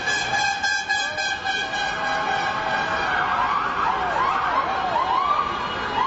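Emergency vehicle sirens sounding in the street; from about halfway through, a siren sweeps quickly up and down in pitch over and over.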